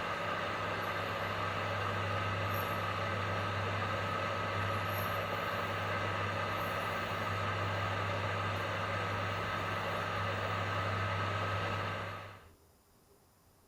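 Microwave oven running, a steady hum with a low drone and a faint higher tone, heating a cup of cupcake batter at 500 W. The hum cuts off about twelve seconds in.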